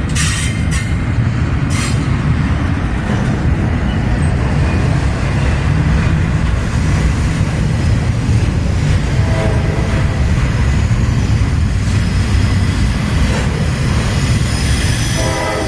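Norfolk Southern diesel locomotive hauling a gondola freight train, its engine and the train giving a steady, heavy low rumble.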